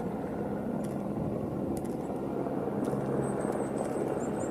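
Snow avalanche coming down: a steady low rumble with a faint steady hum underneath.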